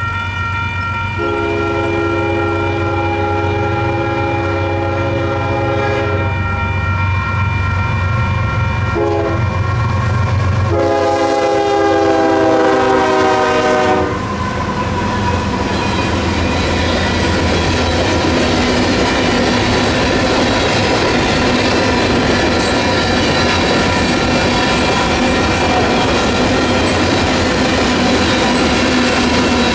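Union Pacific diesel freight locomotive sounding its horn at a grade crossing: a long blast, a short one, then a final long blast that drops slightly in pitch as the engine passes, over the rumble of the diesel engines. Then the freight cars roll by with steady wheel clatter on the rails, while the crossing's electronic bells keep ringing.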